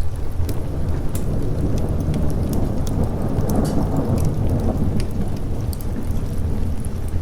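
Thunder rolling over steady rain, swelling through the middle and fading again, with sharp crackles from a wood fire throughout.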